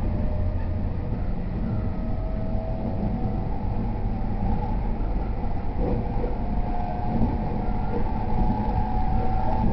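JR E231 series electric multiple unit running, heard from inside the passenger car: a steady low rumble of wheels on rail with a faint motor whine above it.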